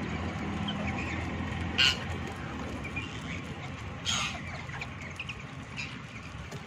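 Parrots calling: two short harsh squawks about two and four seconds in, with small high chirps between them, over a steady low hum.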